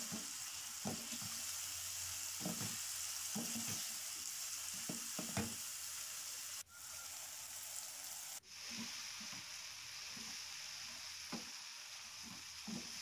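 Chicken, tomato and spring onion filling sizzling as it sautés in a non-stick frying pan, stirred with a wooden spatula that scrapes and taps the pan now and then. The sizzle cuts out for a moment twice midway.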